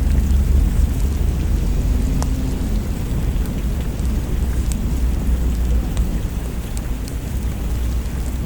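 Steady rain with a continuous low thunder rumble underneath, a little stronger in the first few seconds, and a few scattered faint clicks.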